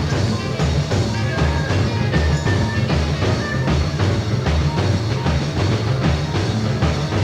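Live rock band playing an instrumental jam, with a drum kit keeping a steady beat under bass and other instruments.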